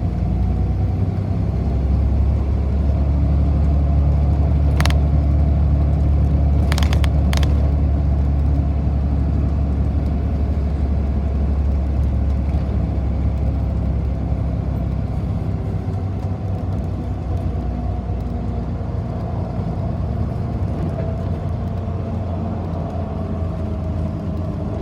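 Interior of a city bus on the move: a steady low rumble from the drive and the road, with a faint whine that rises and falls gently. There are sharp knocks or rattles about 5 and 7 seconds in.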